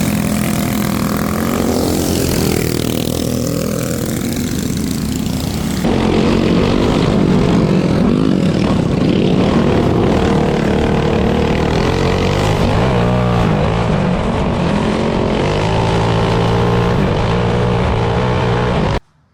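Go-kart with a small Harbor Freight engine running hard, its pitch rising and falling as it is throttled. The sound changes suddenly about six seconds in, and cuts off abruptly just before the end.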